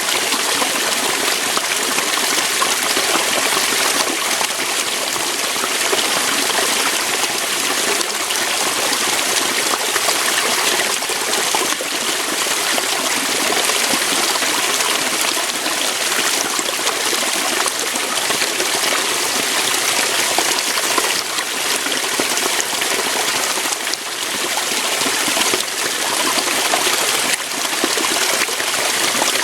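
Waterfall: water pouring steadily over rocks in an even, unbroken rush.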